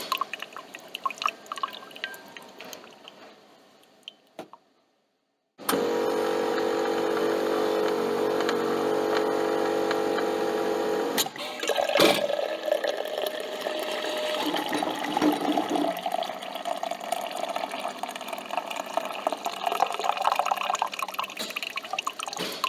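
Coffee machine at work. Liquid drips and trickles into a cup and fades out. After a brief silence the machine hums steadily for about five seconds, stops with a sharp click, and liquid then runs and drips unevenly.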